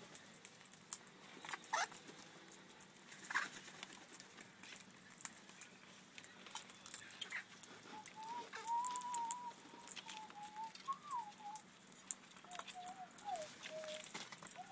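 Birds calling: two short calls sliding downward in pitch in the first few seconds, then from about eight seconds a thin, wavering whistle that later steps down lower. Light scattered clicks and taps sound throughout.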